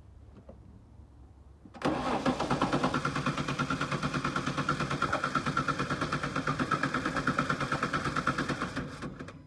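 Starter motor cranking the 1987 Nissan Skyline's factory RB30 straight-six, starting about two seconds in: the engine turns over in a steady rhythmic pulse for about seven seconds but never fires, and the cranking stops near the end. The owner thinks a timing adjustment he had just made probably made the no-start worse.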